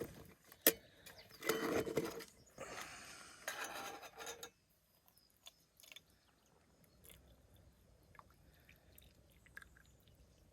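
Close rustling and crinkling in two bursts, the second longer, with a sharp click just before them. After that there are only a few faint ticks.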